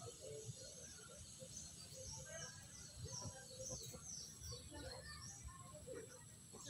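Small birds chirping faintly: many short, quickly falling high chirps repeating throughout, over a low outdoor background rumble.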